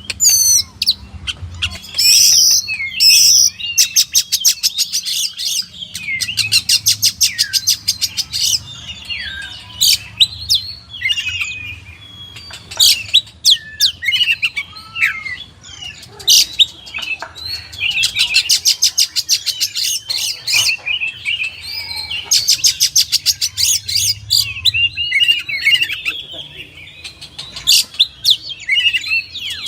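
Oriental magpie-robin (kacer) in full song, a loud varied stream of rapid rattling trills alternating with clear whistled notes and slurred glides.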